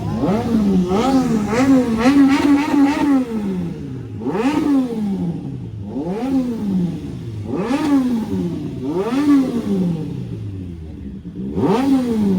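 Triumph superbike engine with an SC Project aftermarket exhaust, free-revved in repeated throttle blips. Each rev rises sharply in pitch and falls away; there are about seven, and one is held for a second or so about two seconds in.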